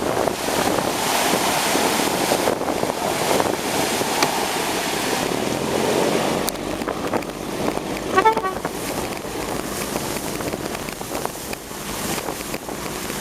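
Wind buffeting the microphone over the rush of water, as when afloat in a small boat. A short, high-pitched tone sounds a little past the middle.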